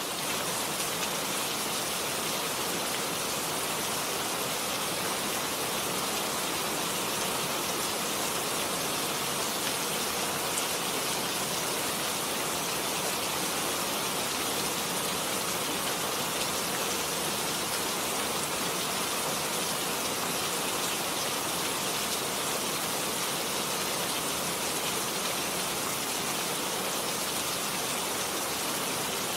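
Steady heavy rainfall, an even continuous hiss of rain on surfaces.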